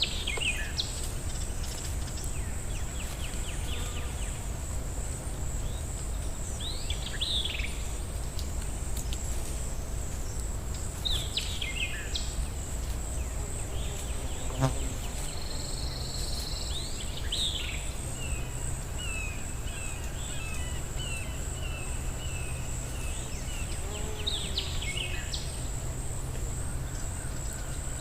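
Forest ambience: birds singing short phrases of falling notes every few seconds, with a run of repeated notes in the middle, over a steady high-pitched insect trill and a low rumble of wind.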